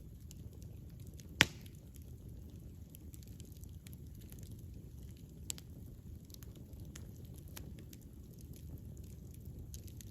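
Wood campfire crackling: scattered small pops and snaps over a low, steady rumble of the flames. One loud, sharp pop comes about a second and a half in, and a smaller one near the middle.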